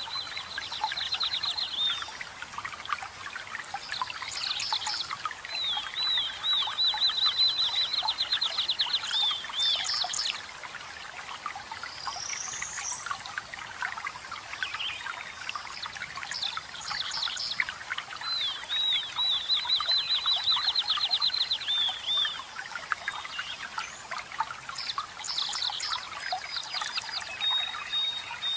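Songbirds singing over steadily trickling, splashing water. One bird sings a long rapid trill three times, each lasting a few seconds. Shorter chirps and a quick rising whistle fall between the trills.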